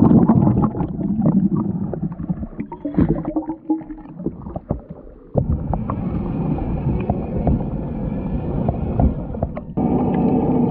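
Muffled underwater sound picked up by a submerged GoPro Hero 7 action camera: water sloshing and gurgling around the housing, with small knocks and clicks. About halfway through it changes suddenly to a steadier rushing wash.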